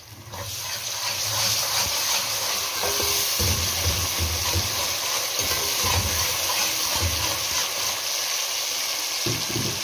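Ginger-garlic paste and golden fried onions sizzling steadily in hot oil in a metal pot while a spatula stirs them. The frying hiss builds up in the first second and then holds.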